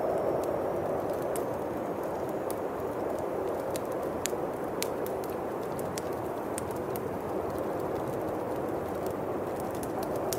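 Bonfire crackling, with sharp irregular pops and snaps over a steady rush of winter wind.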